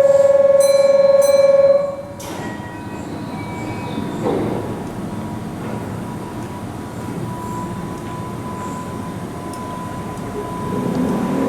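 A loud, steady buzzer-like tone for about the first two seconds, cutting off sharply. Then a Keihan electric train runs along the curved elevated platform with a steady rumble and a thin, steady squeal of wheels on the curve, growing louder near the end.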